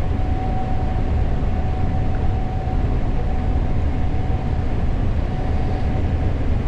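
Gleaner S98 combine running steadily while harvesting corn: a constant heavy low rumble with a steady whine held throughout.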